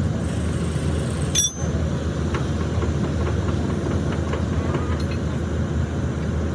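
Steady low machine noise, like a heavy engine running, with a single sharp knock about a second and a half in and a few faint ticks after.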